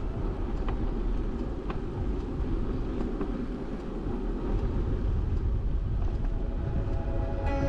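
Steady wind and road rumble picked up by a camera mounted on a moving bicycle, with a few faint ticks.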